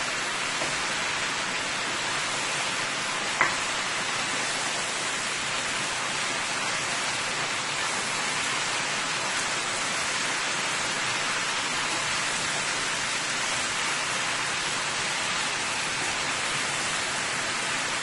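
Steady sizzling of chicken, potatoes and bora (long beans) frying in a large pot as they are tossed with a spatula. One brief knock of the spatula against the pot a few seconds in.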